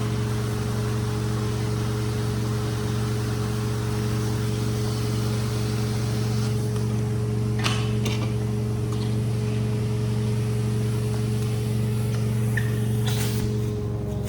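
Rug-cleaning equipment motor running at a steady hum, with a hiss that fades out about halfway through and a few sharp clicks in the second half.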